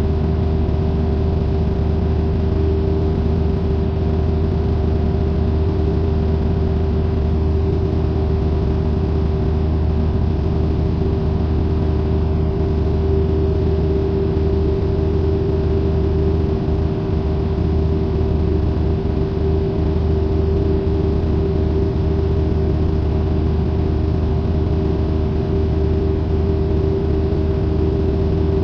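Cessna 172N's four-cylinder Lycoming engine and propeller running steadily, heard from inside the cabin as a constant drone with a strong low hum and a higher steady tone.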